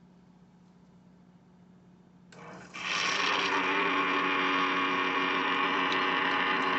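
A single-serve coffee maker's small electric pump switching on about two seconds in and running steadily to push water through the pod, a loud buzzing hum with water hiss.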